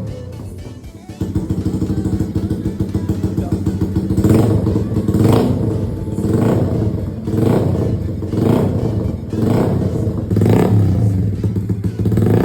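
Motorcycle engine running through a cheap aftermarket exhaust, a loud 'blar blar' burble likened to a Harley. It dips briefly about a second in, then runs steadily with short throttle blips about once a second.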